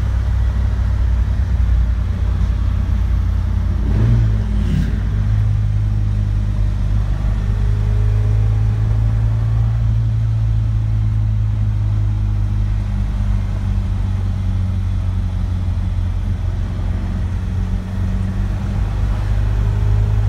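1967 Alfa Romeo Giulia TI's 1.3-litre twin-cam four-cylinder engine heard from inside the cabin while driving. A gear change about four seconds in, then the engine pulls steadily at cruising revs.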